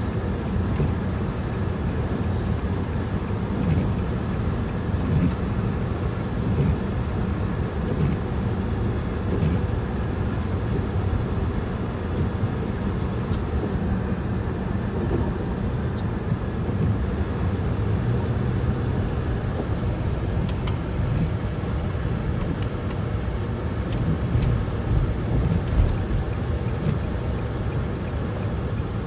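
Storm wind buffeting the microphone: a steady low rumble that swells and eases in small gusts.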